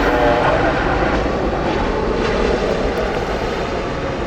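Airliner engines running loud and steady as an aircraft passes at the airport, easing off slightly toward the end.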